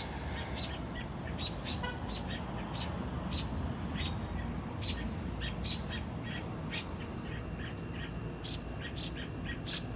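Small songbirds chirping, short sharp high notes repeated irregularly, about one or two a second, over a low steady rumble.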